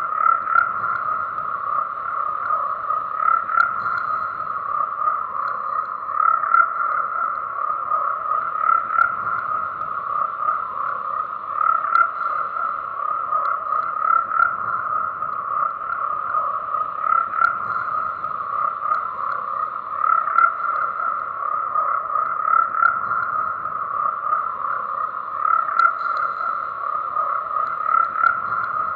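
A chorus of many frogs croaking together, their overlapping calls forming a dense, steady din that swells every few seconds.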